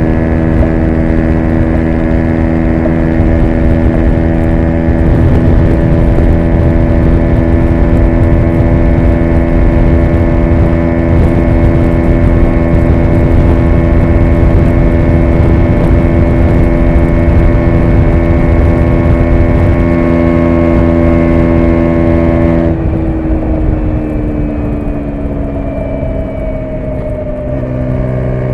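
2017 KTM 125 Duke's single-cylinder 125 cc four-stroke engine held at steady high revs under way, with wind rush on the helmet microphone. After about 23 seconds the throttle is rolled off and the revs fall, then the engine note steps near the end.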